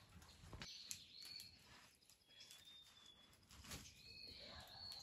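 Faint outdoor quiet with a few short, high bird chirps and two soft knocks.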